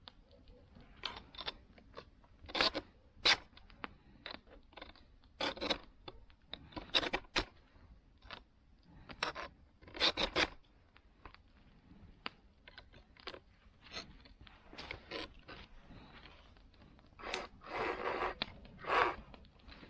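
A file scraping across a saw's teeth in short, irregularly spaced strokes, a few of them longer near the end.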